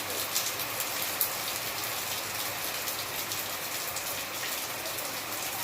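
Heavy rain falling steadily, a constant hiss of rain with many sharp individual drop hits.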